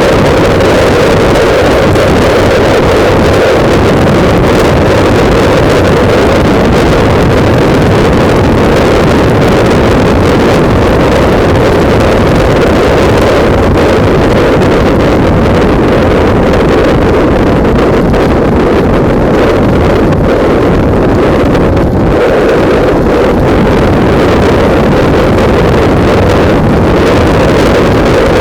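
Loud, steady wind buffeting the microphone of a camera mounted on a moving motorbike, drowning out everything else.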